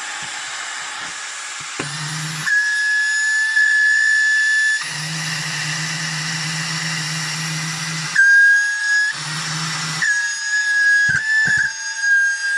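Shark IZ300UK cordless stick vacuum running with a steady high-pitched motor whine over the hiss of its airflow; a lower hum cuts in and out several times as the filter is pressed and released. The owner puts the whine down to a slightly loose filter.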